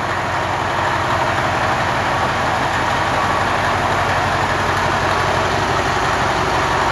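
Caterpillar 3408 V8 pre-combustion-chamber diesel in a 1978 Peterbilt 352H cabover, idling steadily.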